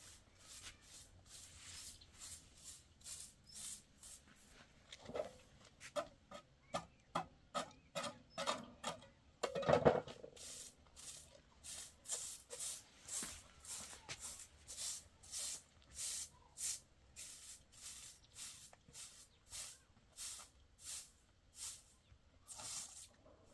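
A hand tool rasping back and forth in even strokes, about two a second, with one louder thump about ten seconds in.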